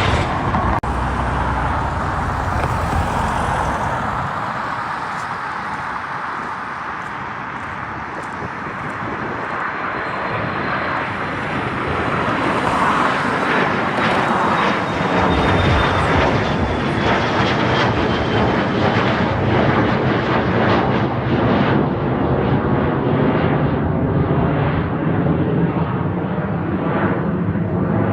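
Jet airliner engines roaring as a plane passes. The roar dips, then swells and stays loud from about halfway. A faint high whine slowly falls in pitch in the middle.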